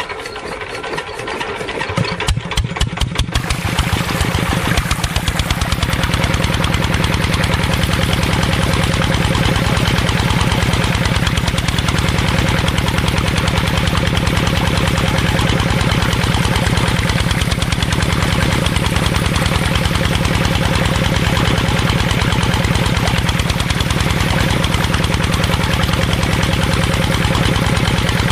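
A small engine starts, firing in uneven strokes for the first few seconds, then settles into a steady, fast, even running rhythm. It is the diesel engine of a DIY mini tractor or water pump.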